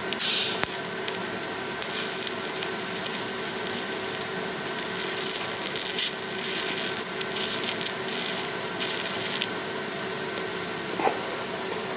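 Electric welding: the arc crackling and sizzling in short, irregular bursts as a bracket is tacked onto the steel frame, over a steady machine hum.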